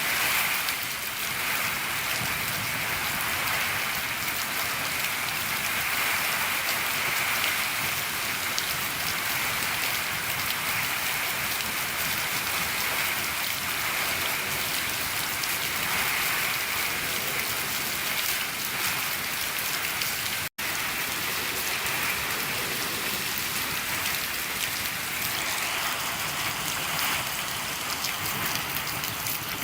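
Steady rain falling on a shed roof: an even hiss of countless drops. The sound cuts out for an instant about twenty seconds in.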